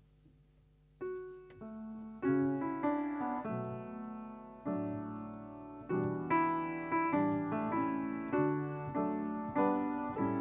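Piano playing slow chords, starting about a second in; each chord is struck and left to fade before the next.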